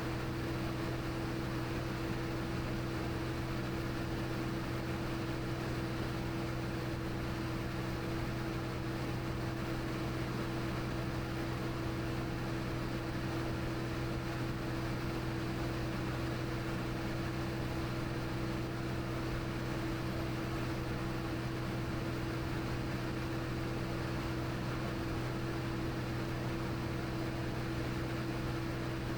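Cirrus SR22T's turbocharged six-cylinder engine and propeller droning steadily in the cabin in flight, a constant hum with no change in pitch or level.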